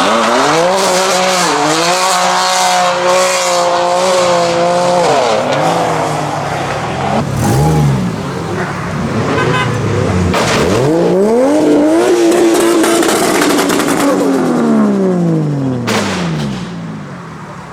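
Modified car engines revving hard. One is held high for about five seconds and then drops away, followed by further rises and a long high hold that falls off near the end, with a few sharp cracks in between.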